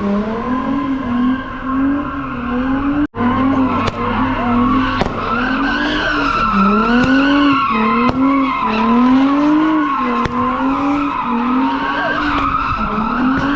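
A car's engine revving up and down in repeated swells while its tyres squeal as they spin, as in a burnout or donuts.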